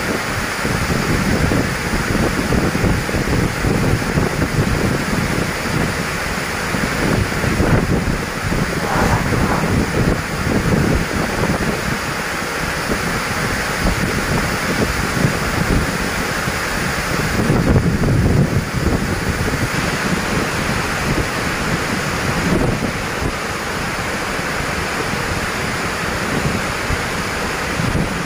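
Heavy storm wind gusting and buffeting the microphone over a steady rushing noise, with stronger gusts now and then, the loudest a little past the middle.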